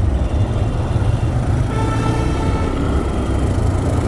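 TVS Raider 125's single-cylinder engine running steadily while the motorcycle is ridden, a constant low rumble.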